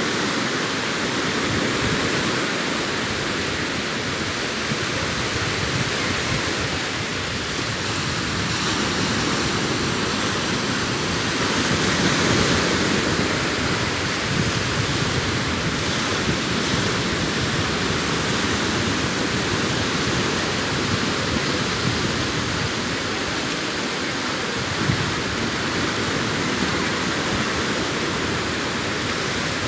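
Sea waves breaking and washing up on the shore in a steady surf, swelling a little louder about twelve seconds in.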